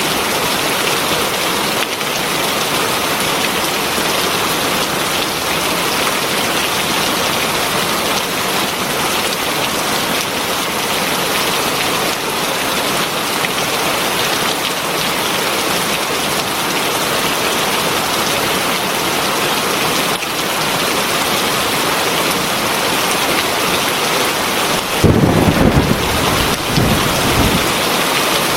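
Heavy rain falling steadily, with a low rumble of thunder near the end.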